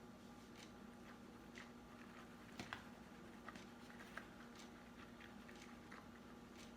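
Near silence with faint eating sounds: soft chewing and small scattered clicks, a few slightly louder about two and a half to four seconds in, over a low steady hum.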